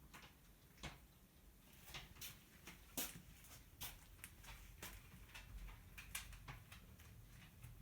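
Near silence: quiet room tone with a scattering of faint, short clicks and small knocks.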